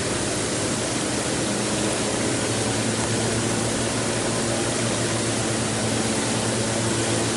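Hot tub running: the jets churn the water with a steady rushing noise over a steady low hum.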